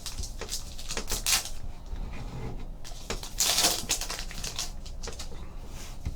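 Trading cards and a foil pack wrapper being handled: a string of light clicks and flicks as cards are shuffled through, with a louder crinkle of wrapper a little past halfway.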